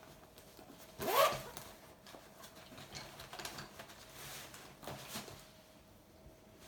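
A zipper pulled open quickly about a second in, rising in pitch, followed by rustling and a few light knocks, as of a bag being opened and things taken out.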